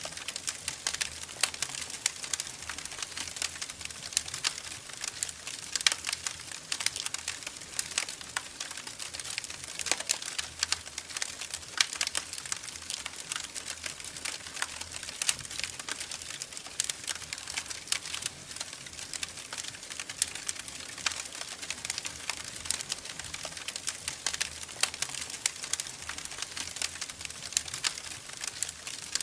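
Wood fire crackling in a fireplace: a steady run of irregular sharp pops and snaps over a soft hiss.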